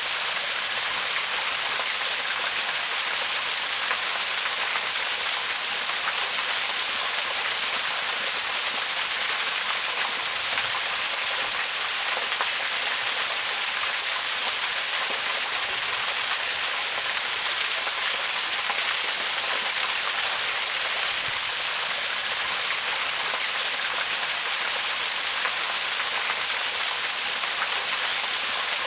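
Waterfall: a steady, even rush of falling water, mostly a bright hiss with little low rumble.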